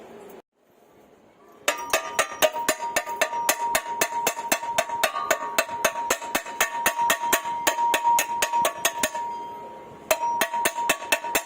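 Rapid, even metallic tapping, about six strikes a second over a steady ringing tone, starting after a brief silence; it fades away and picks up again near the end.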